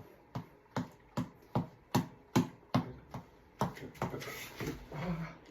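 Headband tap ball (reflex ball on an elastic cord) being punched in a steady rhythm, about ten sharp slaps at roughly two and a half a second. A rougher noise follows for about a second near the end.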